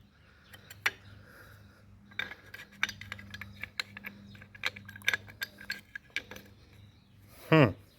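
Metal parts of a disassembled Ford 4.6 V8 oil pump clinking and clicking against each other as they are handled, a dozen or so light knocks scattered through, over a steady low hum. A short vocal sound near the end.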